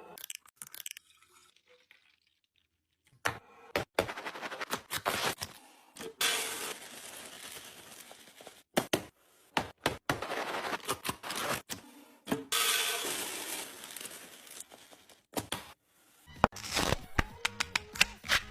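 Groceries and kitchen containers being handled: sharp knocks and clacks as items are set down, with stretches of rustling and tearing packaging lasting a second or two.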